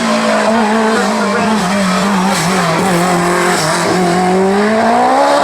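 Race car engine running hard, its pitch wavering and sagging slightly, then rising steadily from about four seconds in as the car accelerates.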